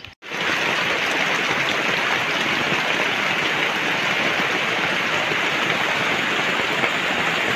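Heavy tropical rain falling steadily, with runoff pouring off the edge of a tarpaulin roof and splashing onto the ground. It cuts in suddenly just after the start.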